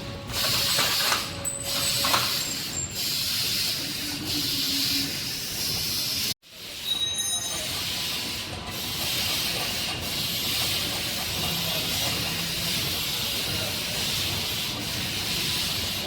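Steady hissing noise, with a few faint clicks in the first couple of seconds and a sudden break of a fraction of a second about six seconds in.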